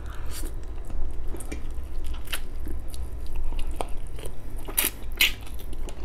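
A person chewing and biting red-braised pork ribs close to the microphone: irregular wet mouth clicks and smacks, a few louder ones a little past two seconds and around five seconds, over a low steady hum.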